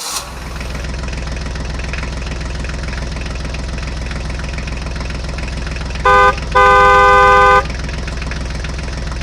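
Vehicle engine running steadily, with a short horn toot about six seconds in followed by a longer honk of about a second.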